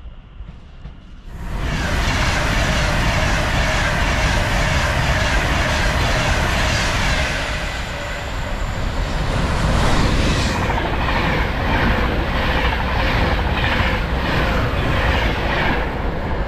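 A train passing through the station close by. Its running noise comes in suddenly about a second in, and the wheels clatter steadily over the rail joints. The clack becomes a more distinct repeating rhythm in the second half.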